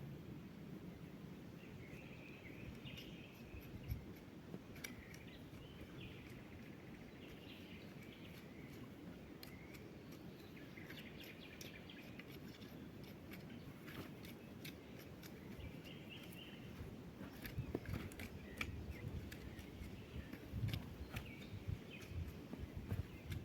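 Birds chirping faintly over a low outdoor rumble, with scattered small clicks. In the last few seconds a series of dull thuds comes in.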